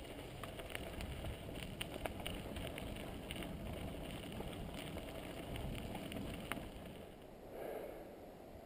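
Mountain bike rolling over a dirt singletrack trail: tyre noise and wind on the microphone, with frequent small clicks and rattles from the bike. The noise eases off somewhat near the end.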